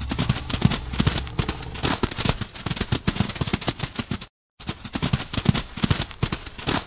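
Running-footstep sound effect: a fast, dense patter of thudding footfalls, broken off briefly about four seconds in and then resuming.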